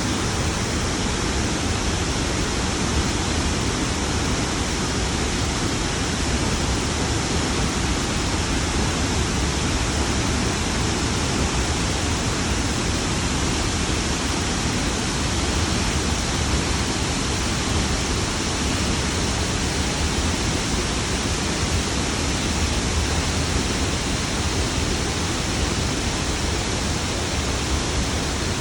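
Tzaráracua waterfall: a steady, loud rush of falling water, even and unbroken, with no other sounds standing out.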